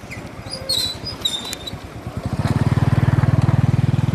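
A small engine that starts up about two seconds in and runs with a steady, even putter.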